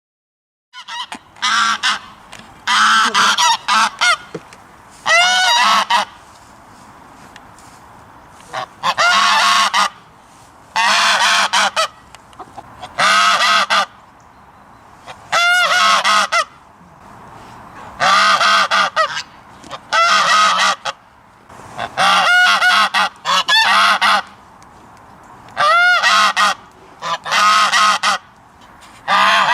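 Geese honking, starting about a second in: loud, harsh calls in clusters that come roughly every two seconds, with a quieter steady background noise between them.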